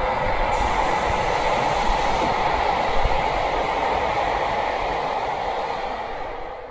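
Train running along the platform tracks, with a steady rolling rumble that fades away near the end. A brief high hiss joins it about half a second in and stops after about two seconds.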